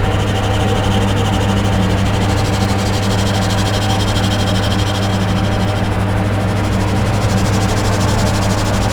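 Electronic dark ambient drone music: a steady deep hum with held tones above it, under a thick layer of hissing noise. A higher hissing band swells in the middle and fades again.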